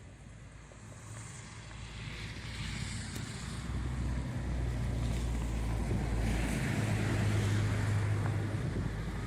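Snowstorm wind rushing and buffeting the microphone, building up over the first few seconds and then staying loud, with a low rumble underneath.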